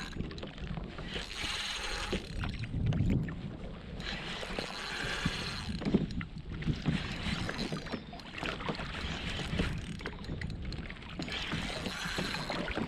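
Water slapping and sloshing against a fishing kayak's hull, with irregular small knocks and splashes that come and go every few seconds.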